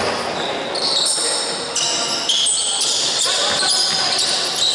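Basketball game sounds in a gym: sneakers squeaking on the court in many short high-pitched squeals, with the ball bouncing and voices in the background.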